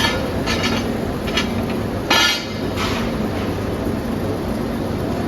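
Metalworking workshop noise: a steady machine drone with several short, sharp metal clanks. The loudest clank comes about two seconds in.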